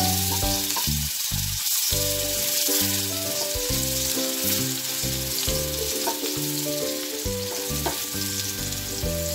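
Sliced onions sizzling in hot oil in a frying pan, stirred with a wooden spatula, with a steady hiss. Background music plays underneath.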